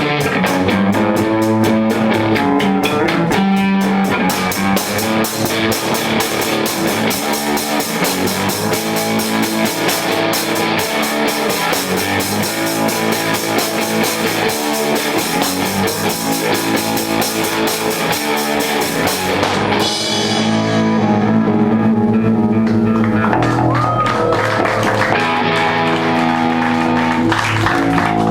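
Live punk-rock band playing loudly, with distorted electric guitar and a drum kit. About two-thirds of the way through, the drums stop and the guitar rings on alone with held chords.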